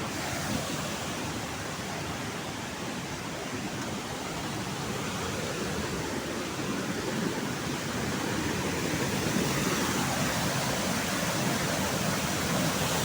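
Waterfall: the steady rushing of falling water, growing a little louder after about eight seconds.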